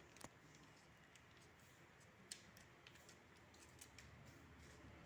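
A few faint snips of scissors cutting through folded newspaper, the sharpest a little over two seconds in.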